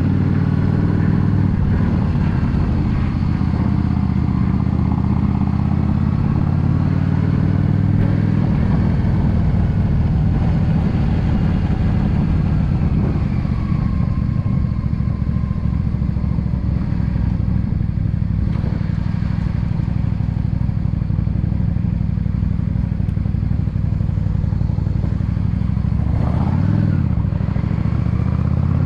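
Yamaha V Star 650 cruiser's air-cooled V-twin running under way, its note rising and falling with the throttle. Near the end the engine pitch drops briefly and then climbs again as the bike picks up speed.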